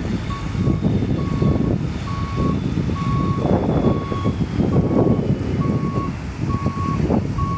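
Reversing alarm of a heavy construction machine beeping at an even pace, about one beep a second, over the steady rumble of a diesel engine.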